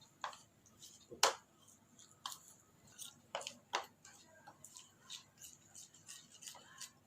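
A utensil stirring a thick curd-and-cream marinade in a mixing bowl: irregular light clicks and taps against the bowl, the loudest about a second in.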